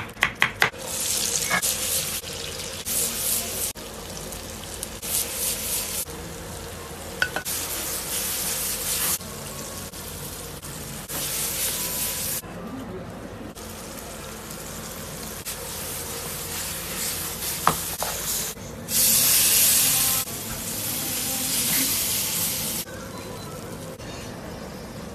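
A knife chopping quickly on a wooden board for a moment at the start, then food sizzling and frying in a hot pan over an open fire, in stretches that start and stop abruptly, loudest about three-quarters of the way through.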